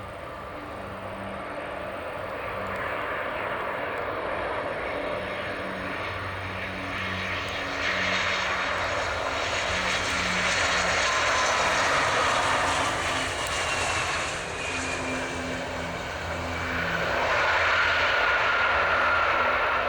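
Airbus A320 jet engines on landing approach, growing louder as the airliner comes past, with a whining tone that slides slowly down in pitch.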